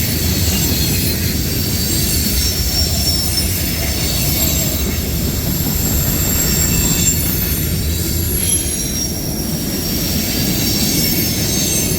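Freight cars of a long mixed freight train rolling past with the brakes applied: a steady, loud rumble of wheels on rail with thin, high-pitched squealing.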